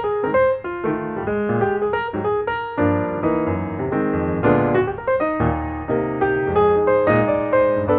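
Background piano music, a run of notes played one after another with sustained chords.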